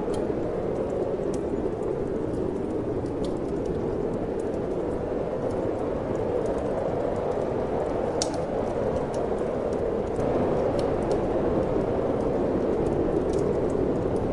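Steady rushing wind with a wood fire crackling in a fireplace: sparse sharp pops and snaps over the even noise, which swells slightly about ten seconds in.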